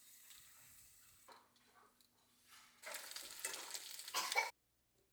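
Kitchen cooking sounds: a utensil stirring, faint at first, then a louder run of uneven strokes that cuts off suddenly near the end.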